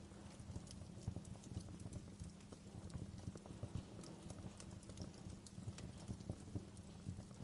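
Campfire burning: a steady low rumble under frequent, irregular small crackles and pops from the burning wood.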